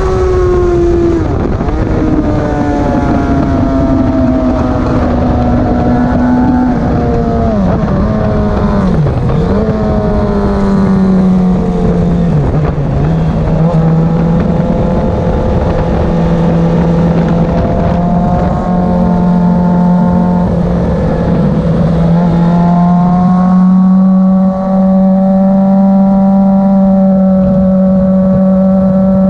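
Motorcycle engine running hard at speed, its pitch climbing and falling with throttle and gear changes, with several sharp dips as it slows through turns. It then holds a steady high note over the last few seconds, over a rushing noise.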